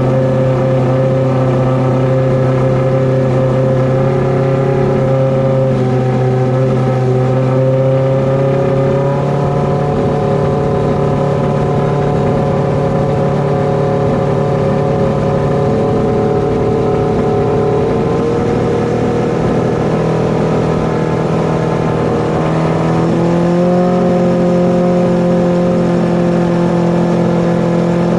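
Kawasaki ZX-12R drag bike's inline-four engine running at a steady speed, its pitch stepping up slightly about a third of the way in, again past the middle, and once more near the end.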